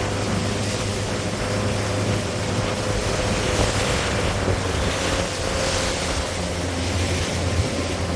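Motorboat engine running steadily under way through choppy wake water, with wind buffeting the microphone and water rushing past the hull, swelling briefly a few times in the middle.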